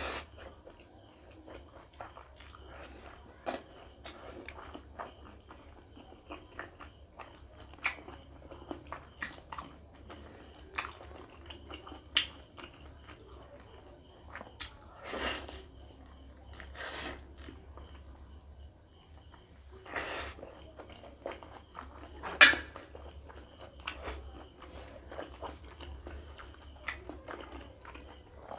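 Close-miked chewing and biting of pork rib curry and rice: many small wet mouth clicks and smacks, with a few louder bites scattered through.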